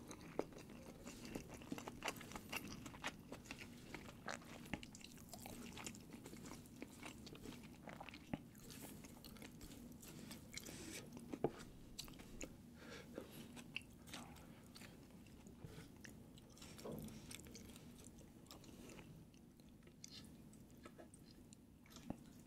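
Close-miked mouth sounds of someone eating: chewing and biting, with many sharp, wet clicks and the odd crunch.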